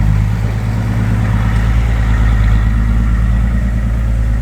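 Dump truck's diesel engine running steadily at low revs.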